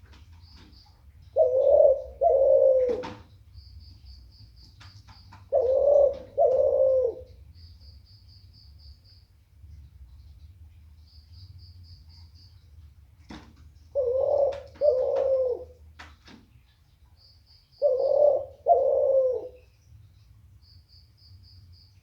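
Barbary dove (puter) cooing: four loud two-note coos spread over the stretch, with pauses between them. A faint, rapid high chirping trill repeats between the coos over a low steady hum.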